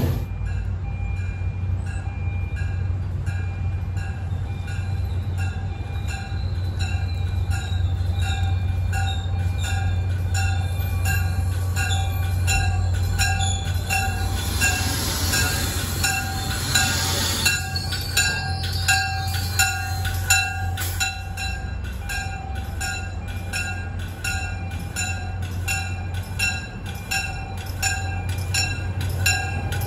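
MBTA commuter rail train pulling into the station cab car first, its diesel drone low and steady while a bell rings about twice a second. A hiss swells about halfway through as the train comes in.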